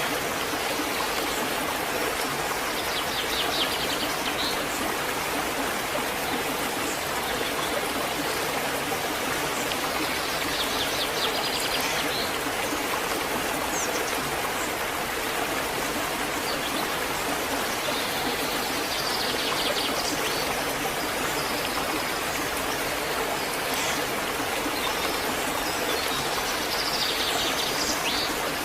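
Waterfall, its water rushing steadily, with a bird singing short trills four times over it.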